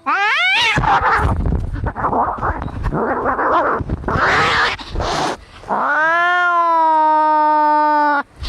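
Cats fighting. A short rising yowl comes first, then about five seconds of harsh, ragged snarling and screeching, then one long drawn-out yowl of about two and a half seconds that cuts off suddenly.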